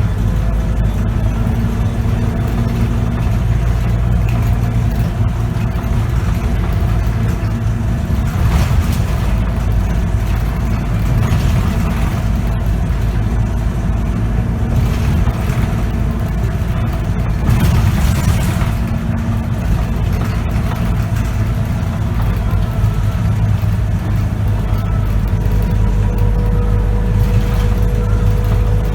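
Scania K94UB bus's diesel engine and ZF automatic gearbox running steadily from inside the bus as it drives, with two short rushes of noise, one about eight seconds in and one just before halfway.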